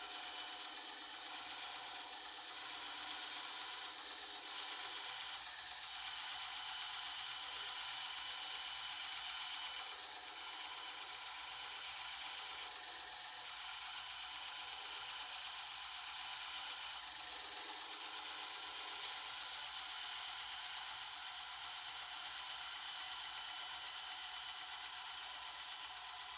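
Bandsaw running and cutting, a steady hiss with a continuous high whine and no breaks.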